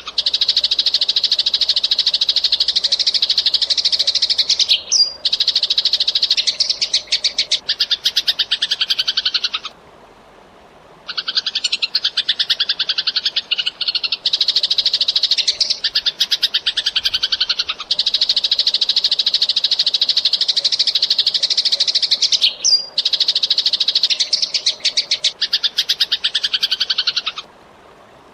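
Eurasian tree sparrow chattering in a fast, tightly packed run of high chirps that goes on for several seconds at a time, breaking off briefly about ten seconds in and again near the end.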